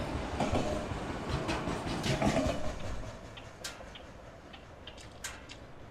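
Freight train of autorack cars rolling past, wheels rumbling and clacking over the rails. The sound fades about three seconds in, leaving a few separate sharp clicks.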